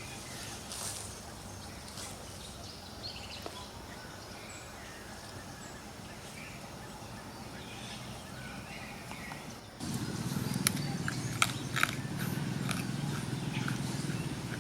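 Outdoor ambience with a few faint high chirps. About ten seconds in, a louder low rumble with sharp clicks and crackles starts suddenly.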